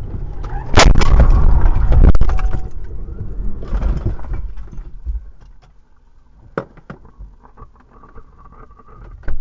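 Vehicle collision heard through a dashcam: a sudden loud bang about a second in, then a heavy rumbling noise for about a second and a half that dies away by about five seconds in, followed by a few faint clicks.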